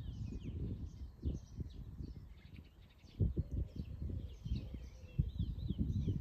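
Small birds chirping and twittering, with a run of quick warbling notes a little past the middle, over an irregular low rumble and bumps.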